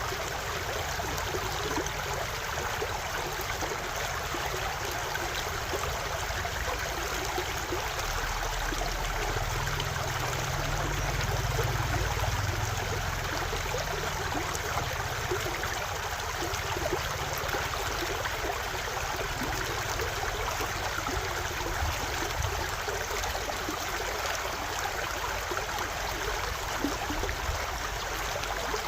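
Stream water running steadily. A low rumble swells briefly about ten seconds in and fades again.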